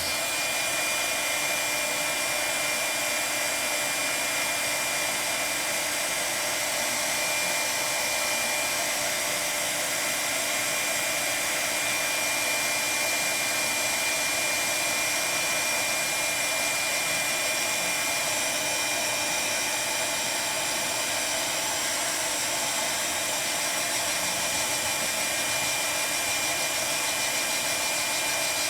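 Handheld hot-air blower (a crafter's heat tool or hair dryer) running steadily: an even rushing blow with a thin, steady high whine on top.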